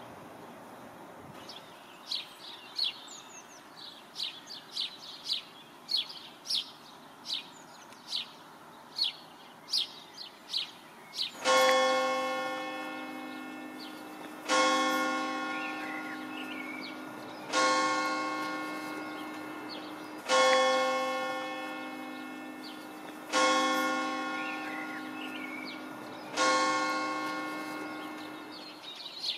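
A bird gives a rapid run of short, sharp chirps, roughly one or two a second. About eleven seconds in, a single bell starts tolling slowly: six strokes about three seconds apart, each ringing on and fading, with faint chirping still behind it.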